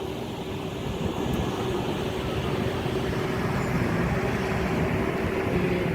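Steady vehicle noise, like road traffic, with a constant low hum underneath.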